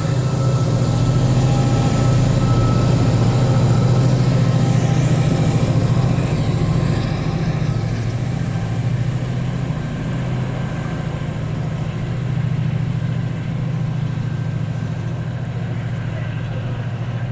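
Class 68 diesel-electric locomotive working hard under power, its Caterpillar V16 engine giving a loud, steady, deep drone. The drone peaks a few seconds in, then slowly fades as the locomotive pulls away.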